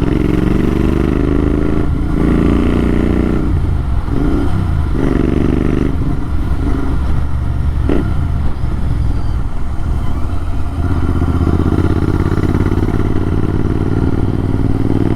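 Motorcycle engine running through an AEW TE102 aftermarket exhaust with the dB killer removed, a steady open-exhaust drone whose pitch rises and falls as the revs change, dipping about four to five seconds in.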